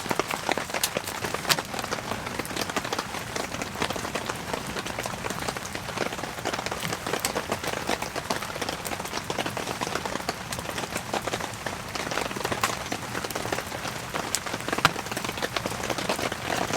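Heavy rain falling on the fabric of a tent: a dense, steady hiss of rain with many sharp individual drop hits.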